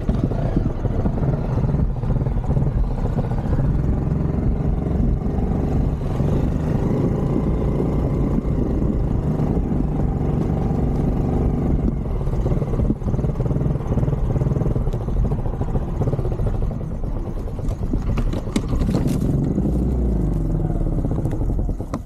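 Off-road motorcycle engine running under load, its pitch rising and falling with the throttle, with some clatter; the sound drops away sharply at the very end.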